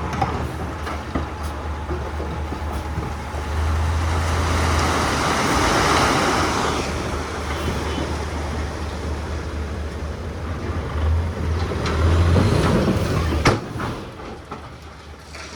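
Heavy diesel earthmoving machinery working, with a steady low engine drone and a scraping, rattling noise over it. It swells in the middle and again near the end, where a sharp knock comes just before the sound drops away and grows quieter.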